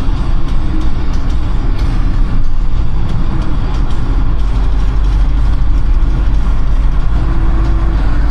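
Car driving at speed on a city road: a steady low rumble of engine and tyre noise.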